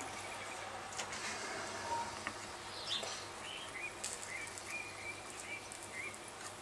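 Bird chirping: a string of short high chirps in the second half, over a steady low hum, with a few faint clicks earlier on.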